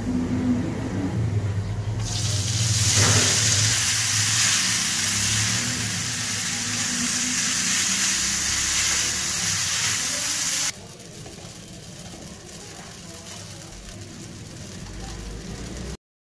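Food sizzling as it fries in hot oil in a non-stick pan: minced garlic sautéing, then noodles being stir-fried with a spatula, the sizzle much louder from about two seconds in. Near the middle it drops suddenly to a quieter sizzle.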